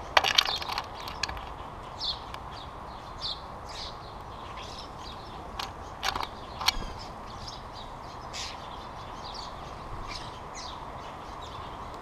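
Birds at a platform feeder heaped with nuts and seed: sharp clicks and knocks come in clusters just after the start and again about halfway, as birds land and peck on the feeder tray. Small birds give short, high chirps every second or so throughout.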